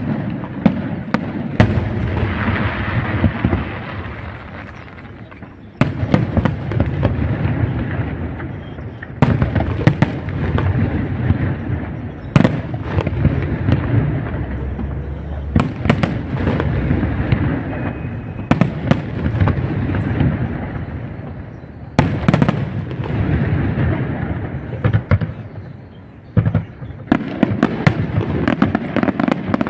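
Aerial firework shells from a professional display bursting one after another: many sharp bangs, a dozen or so of them loud, over a continuous low rumble and crackle. There are brief lulls about four seconds in and again near the end.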